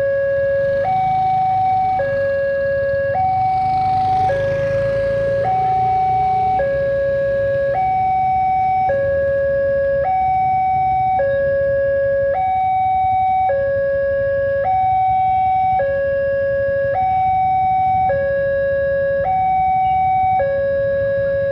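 Railway level-crossing warning alarm sounding: an electronic two-tone signal that alternates between a lower and a higher note about once a second, the signal that a train is approaching. A low rumble runs underneath, with a brief swell of noise about four seconds in.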